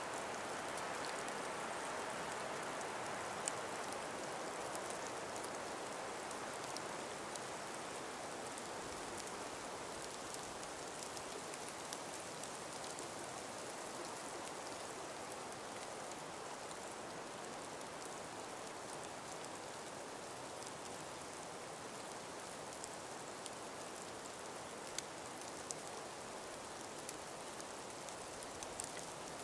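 Calm breeze moving through an ice- and snow-laden forest: a soft, steady hiss that is a little stronger in the first few seconds and then eases, with occasional faint ticks.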